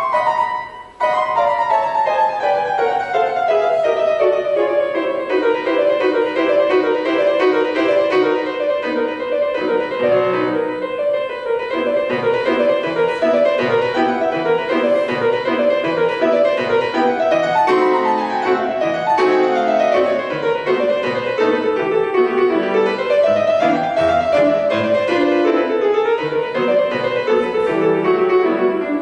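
Solo piano playing fast runs of notes, many sweeping downward, with a short break about a second in.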